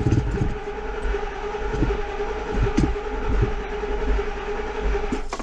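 Ford Expedition V8 engine being cranked over by its starter without firing: a steady whine over a low rumble that stops suddenly near the end. It is a crank-no-start that the owner puts down to the fuel pump not giving fuel pressure.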